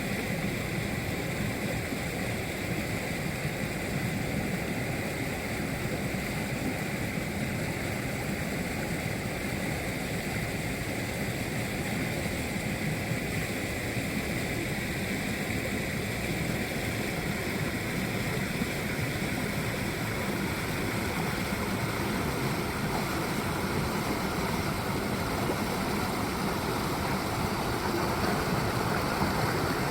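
Mountain stream flowing: a steady rush of water, a little louder near the end.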